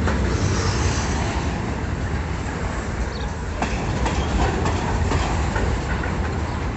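Pulp freight train rolling past on the rails: a steady low rumble with scattered clicks and clacks from the wheels.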